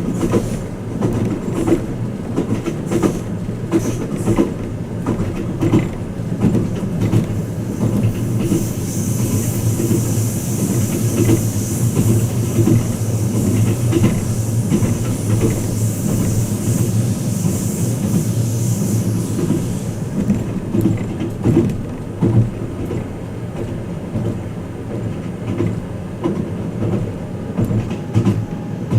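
Luxury sleeper train running, heard from inside a passenger compartment: a steady low rumble with the wheels clicking irregularly over the rail joints. A high hiss joins in for about ten seconds in the middle.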